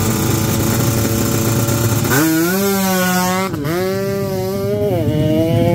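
Kawasaki Ninja 150 R two-stroke single-cylinder drag bike held at steady high revs on the start line, then launching: the engine pitch climbs, drops sharply at two upshifts about a second and a half apart, and climbs again after each.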